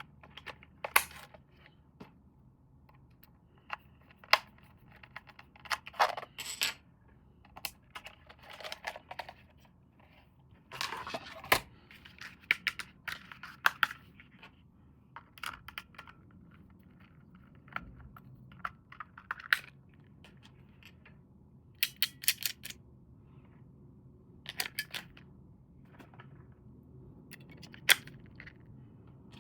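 Toy and packaging being handled during an unboxing: irregular sharp clicks and taps, with short stretches of crinkling or tearing of packaging.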